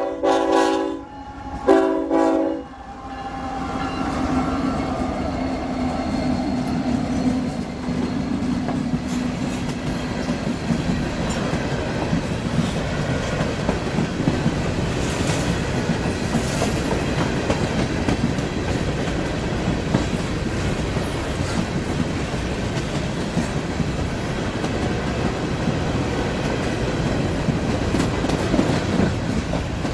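Norfolk Southern diesel freight train sounding its horn, one blast ending just after the start and a second about two seconds in. The locomotives then pass, and a long string of covered hopper cars rolls by with a steady clatter of wheels over the rails.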